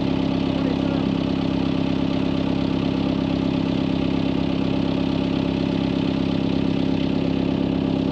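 Tractor engine idling steadily, its note and pace unchanged.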